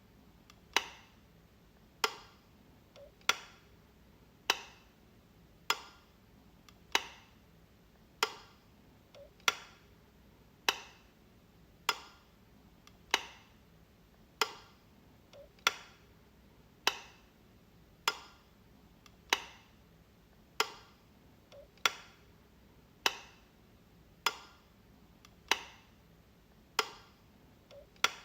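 Light switch being flicked over and over, a sharp plastic click about every second and a quarter at a steady, even pace, with a fainter small click now and then between them.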